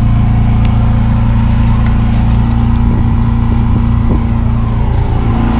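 Engine running with a loud, steady hum; its pitch steps up slightly about five seconds in.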